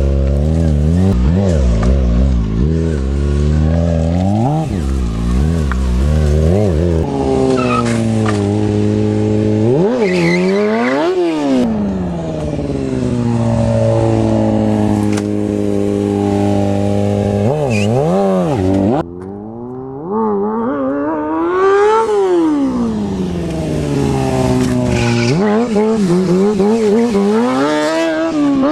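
Sportbike engine with a Two Brothers Racing full exhaust system, revved up and down again and again during stunt riding. Some stretches are held at steady revs, and the sound briefly drops away about two-thirds of the way through.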